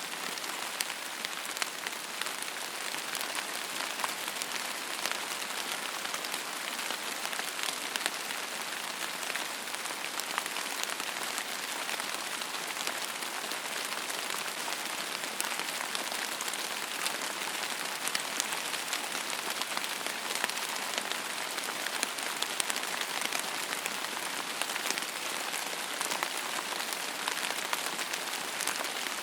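Steady rain falling on a surface: an even hiss made of many small close drop ticks, with no thunder or other sounds.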